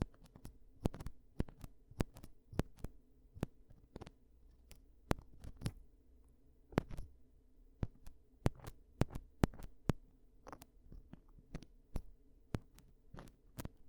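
Close-miked ear-cleaning sounds: a tool tapping and scraping in an ear, making irregular sharp clicks and crackles about two a second over a faint low hum.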